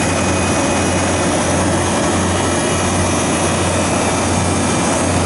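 Refrigeration condensing unit running steadily, a constant low compressor hum under the even rush of the condenser fan, while the system is being charged with refrigerant gas on the suction side.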